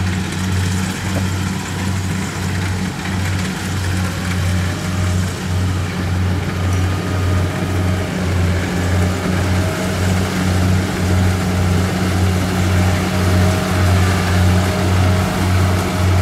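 Kubota DC70 rice combine harvester working in the field, its diesel engine and threshing machinery giving a loud, steady low drone that pulses regularly.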